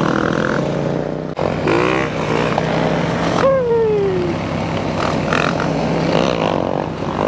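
Motorcycle engines at a group ride: one engine holds a steady low hum throughout while other bikes rev up about two seconds in and wind down about three and a half seconds in.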